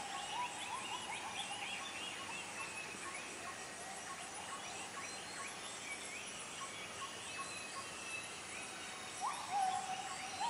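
Bornean lowland rainforest dawn chorus: many birds calling with short rising and falling whistles over a faint steady insect hum. A lower, louder call, held with slides in pitch, comes in about nine seconds in.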